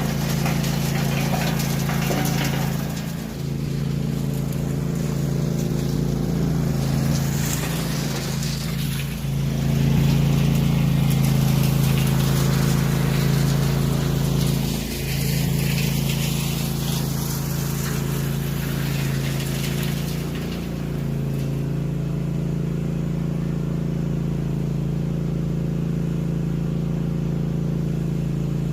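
A small engine running steadily at one speed, with a rushing noise over it that fades about twenty seconds in.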